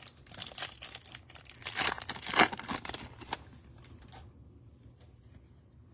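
A trading-card pack's wrapper being torn open and crinkled, a run of crackling rips and rustles that peaks about two and a half seconds in and stops about four seconds in.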